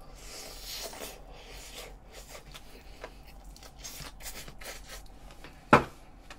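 A person chewing a large mouthful of gimbap and fish cake close to the microphone: soft, wet mouth sounds and small clicks, with one sharp click near the end.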